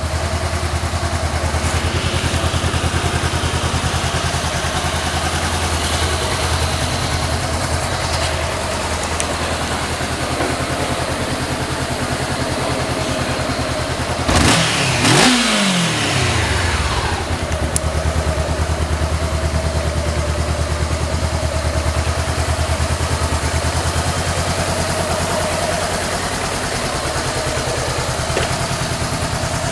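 Honda CB500 motorcycle engine idling steadily, blipped twice in quick succession about halfway through, the revs then dropping back to idle.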